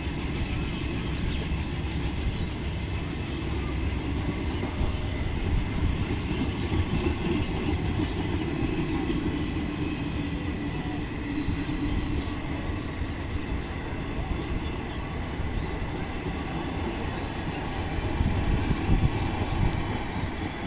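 Express train hauled by a WDG diesel locomotive running along the track: a steady rumble of the engine and rolling wheels, with a rattle of wheels over the rails growing a little louder near the end.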